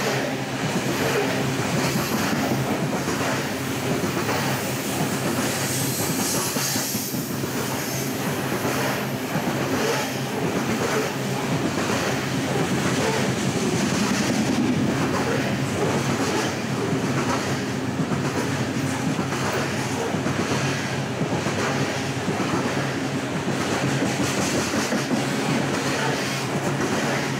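Loaded open-top coal cars of a BNSF freight train rolling past, their wheels clacking in a steady repeating rhythm over a constant running noise.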